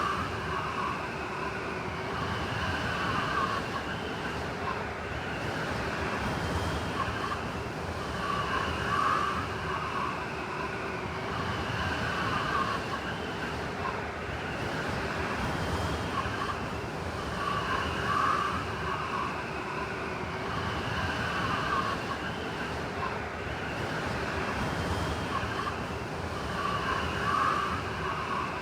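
Blizzard wind, a steady rushing with faint whistling tones through it, the same swells coming round about every nine seconds.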